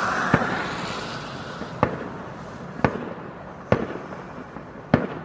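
Fireworks going off: five sharp bangs, roughly a second apart, over a hiss that fades away during the first couple of seconds.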